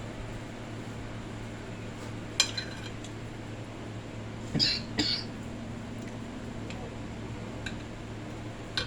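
Cutlery clinking and scraping against a plate while eating: one sharp clink about two seconds in, then two louder short clatters around the middle and a few faint ticks, over a steady low hum.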